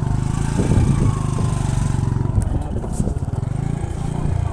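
Motorcycle engine running steadily with a fast, even firing beat as the bike is ridden.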